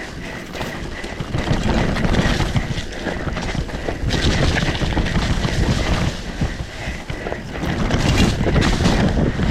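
Mountain bike riding a rough trail: wind rushing over the microphone mixed with tyre rumble and rattle from the bike, the noise swelling and easing several times.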